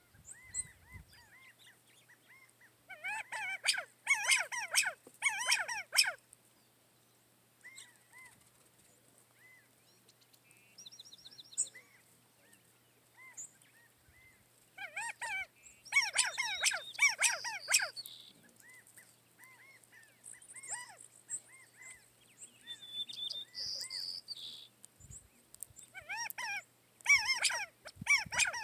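Birds calling in the open: three bursts of rapid, overlapping chattering calls, a few seconds in, about halfway and near the end, with scattered single chirps in between.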